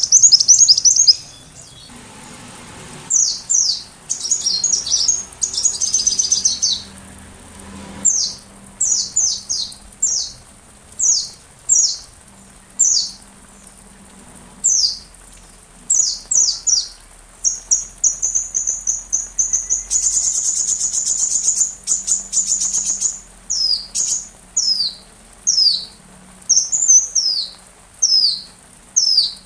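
Sunbird (Indonesian 'kolibri') singing: clusters of short, high, downslurred chirps, broken past the middle by two rapid, high trills.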